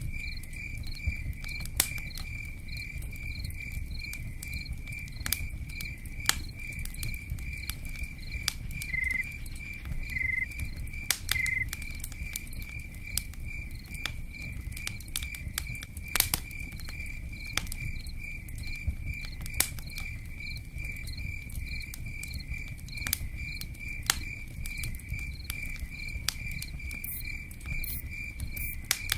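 Crackling campfire with sharp pops here and there, over a low steady rumble and pattering, while a cricket chirps in a steady even rhythm throughout. A few short higher chirps come from another insect about a third of the way in.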